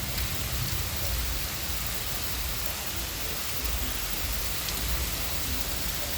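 Heavy rain falling steadily, a dense even hiss of rain pouring down with a low rumble beneath.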